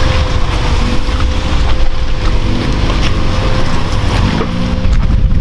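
Off-road vehicle engine running steadily and loud under load while driving through deep water, a rough low rumble with a thin steady whine over it.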